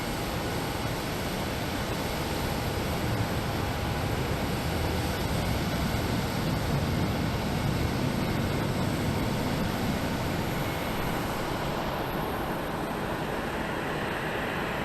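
Airliner jet engine noise, a steady rush that swells a little toward the middle and then eases off.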